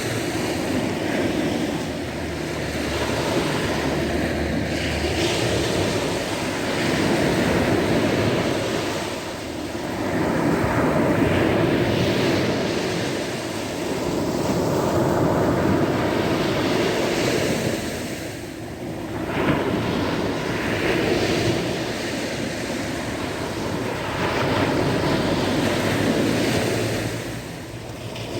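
Sea waves breaking and washing on a shore, a continuous surf noise that swells and eases every few seconds, with wind on the microphone.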